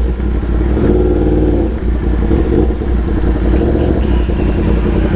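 Yamaha R1 crossplane inline-four motorcycle engine with an SC Project exhaust running under way, its pitch holding fairly steady.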